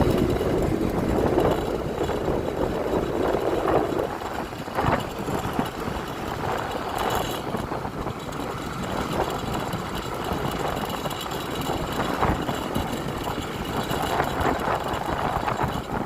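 Honda Click 125i scooter engine running in city traffic, with the noise of other vehicles around it.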